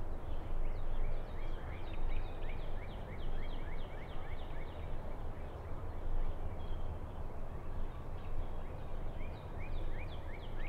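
Outdoor ambience: a songbird calling in quick runs of short falling chirps, once early and again near the end, over a steady low rumble.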